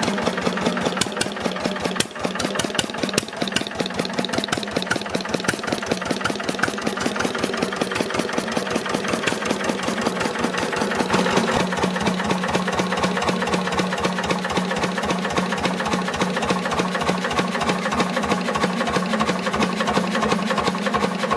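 Deutz MAH 516 Otto-cycle engine running steadily with a rapid, even firing beat.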